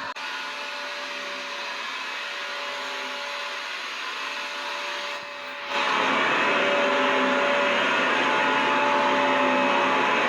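Vacuum cleaner motor running steadily: an even rushing noise with a steady whine. About halfway through it dips briefly, then runs noticeably louder and fuller.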